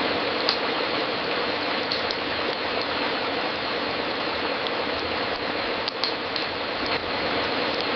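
Fireplace crackling: a steady hiss of burning wood with scattered sharp pops and snaps.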